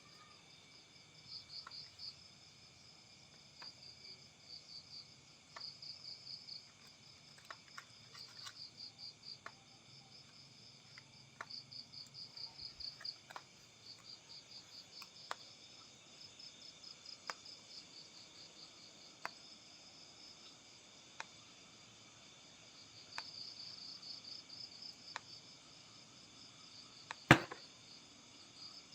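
Insects chirping in repeated short, high trills, with scattered faint ticks and one sharp knock near the end.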